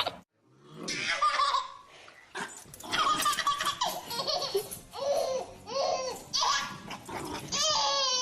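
People laughing hard in short, repeated bursts of high-pitched ha-ha syllables, starting about a second in after a brief silence.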